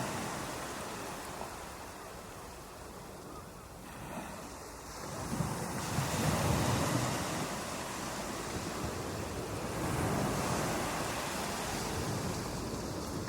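Ocean waves breaking on a beach, a steady wash of surf that ebbs for a few seconds and then swells as another wave comes in about five seconds in. Some wind noise on the microphone.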